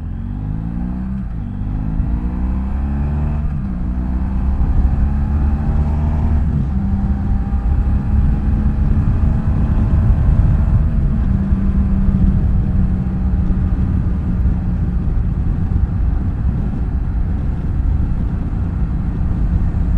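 BMW F800GS parallel-twin motorcycle engine under way, its note rising and falling through the first several seconds, then settling into a steady cruising drone, with a low rumble of road and wind noise.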